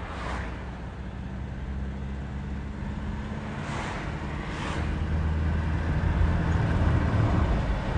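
Mercedes-Benz W124 200D's 2.0-litre four-cylinder diesel engine running steadily with road noise as the car drives, heard from inside the cabin. It grows louder about halfway through.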